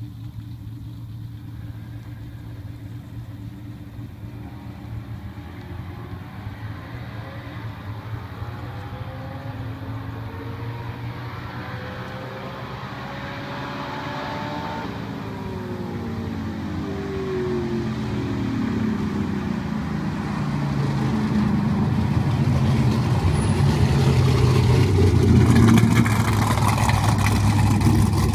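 Drag car engines running: a steady low engine rumble throughout, a car's engine climbing in pitch as it revs up and then falling away about halfway through, and engine sound growing steadily louder toward the end as a car comes closer.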